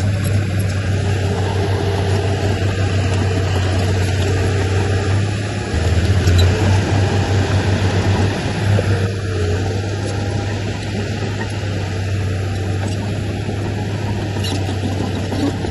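Heavy diesel engine of earthmoving machinery (bulldozer or dump truck) running steadily with a low hum, growing louder for a few seconds about six seconds in.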